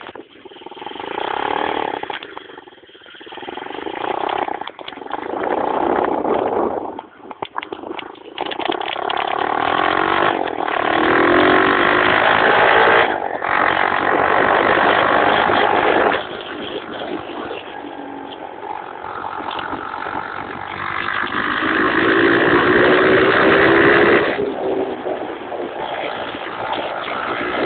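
Pit bike engine revving as it is ridden, the engine note rising and falling repeatedly with throttle changes and briefly dropping off about seven seconds in.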